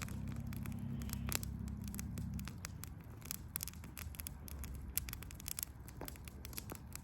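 Campfire crackling and popping irregularly as it burns low. A low rumble underneath fades out about two and a half seconds in.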